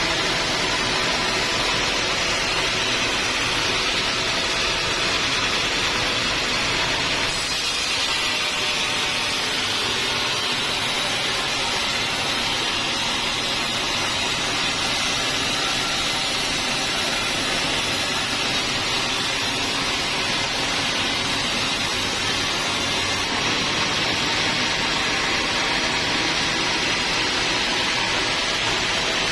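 Sawmill saw running steadily, a constant machine noise with a faint hum that holds the same level throughout.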